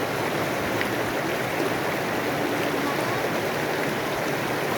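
River water flowing, a steady rushing noise that does not rise or fall.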